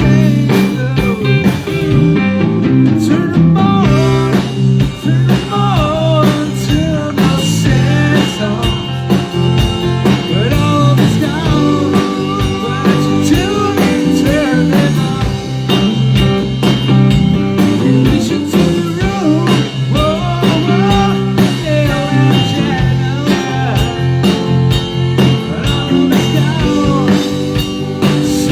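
Live blues-rock band playing: electric guitar, bass guitar and drum kit, with a wavering lead line over a steady bass groove.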